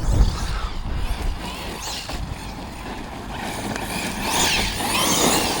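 Arrma Notorious 6S RC stunt truck's brushless electric motor whining as the truck is driven hard. In the second half the whine rises and falls in pitch several times with the throttle.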